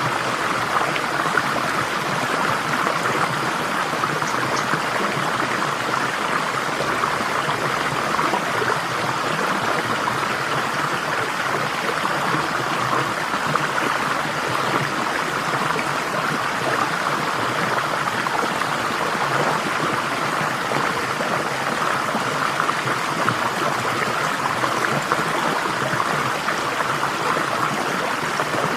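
Water flowing in a stream, a steady babbling rush with no breaks.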